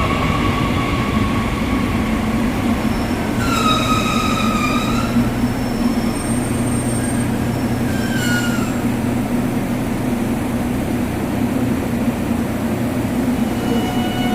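JR Kyushu 813 series electric train pulling away from a station: a steady running rumble throughout, with brief high whining tones about three and a half and eight seconds in.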